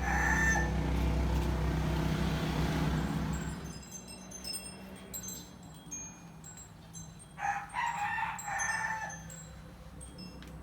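A rooster crowing once, about seven and a half seconds in. Before it, in the first few seconds, there is a steady low rumble, and scattered short high tones run throughout.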